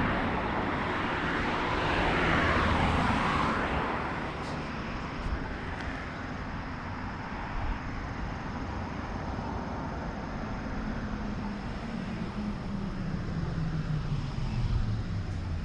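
Road traffic: a vehicle passes during the first four seconds, then a steady traffic hum, with a low engine note rising near the end.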